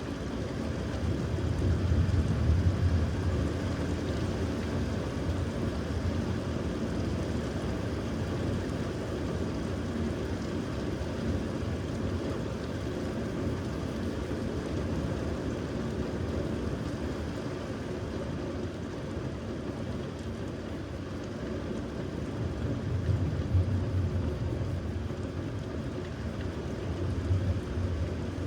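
Thunderstorm: a steady wash of rain and wind, with low rumbles of thunder swelling about two seconds in and twice more near the end.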